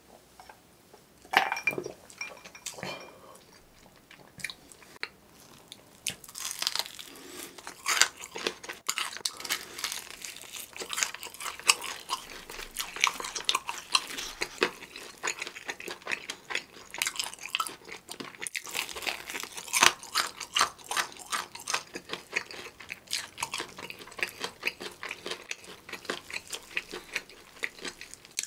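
Close-up crunchy chewing and biting of crispy fried chicken with a seasoned powder coating, a dense, irregular crackle of crisp clicks that starts a few seconds in. A single sharp knock about a second in.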